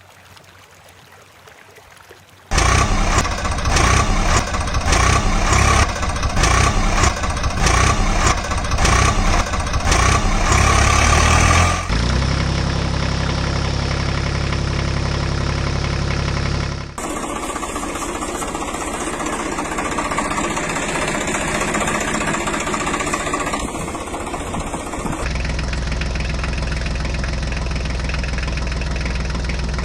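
Vehicle engine running, with the sound changing abruptly about 2.5, 12, 17 and 25 seconds in as one clip cuts to the next; the first part after the quiet opening has a regular rhythmic pulse.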